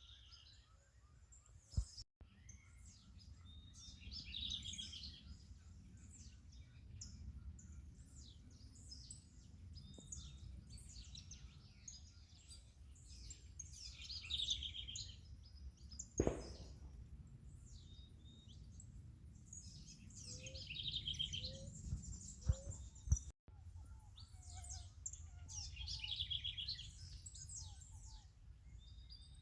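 Wild birds singing, with chirping phrases of song recurring every five or six seconds and other calls between them, over a steady low background rumble. A few sharp knocks break in, the loudest about halfway through.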